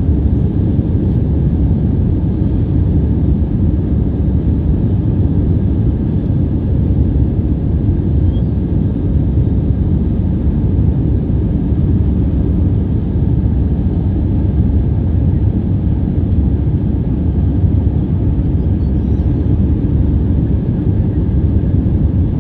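Jet airliner running, a steady low rumble that neither rises nor falls.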